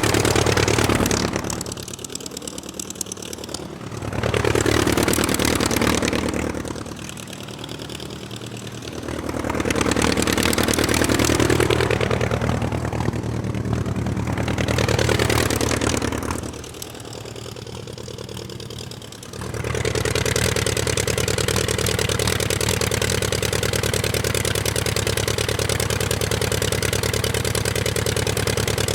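A motor-vehicle engine sound revving up and down several times, falling back between revs, then running steadily from about twenty seconds in.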